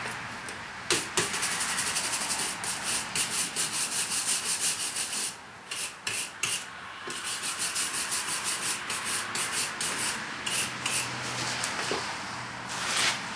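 Fast, even scraping strokes on the forged steel, about five a second, in two runs with a short pause about five seconds in.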